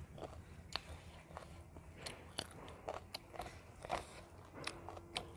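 Close-up chewing and lip-smacking of a mouthful of rice and chicken curry eaten by hand, with irregular wet clicks a few times a second.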